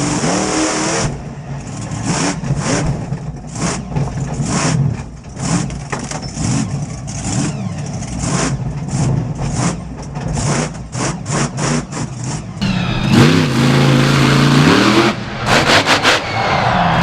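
Monster truck engines revving hard, heard as a series of short cut-together clips. About three-quarters of the way in, one engine revs up and down several times.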